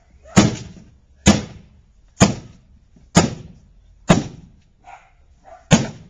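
A microwave oven being smashed with repeated heavy blows: six hard impacts about a second apart, with a longer gap before the last, each dying away briefly.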